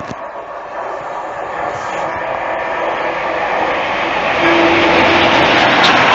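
Train approaching, its running noise growing steadily louder, with a brief steady note sounding about four and a half seconds in.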